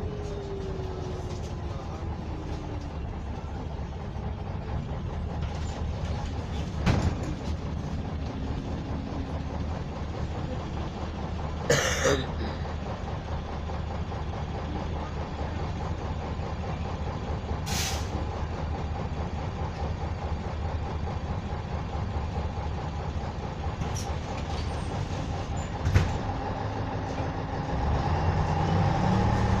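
Inside a MAZ-104 city bus under way: its YaMZ-236M2 V6 diesel runs steadily under the road noise. Short hisses come about twelve and eighteen seconds in, with a few knocks in between, and the engine grows louder near the end.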